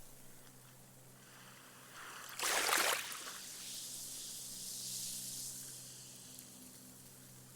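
Small, gentle sea wave breaking on a sandy beach about two and a half seconds in with a short splash, then its wash hisses up the sand and fizzes away as the foam sinks in over the next few seconds.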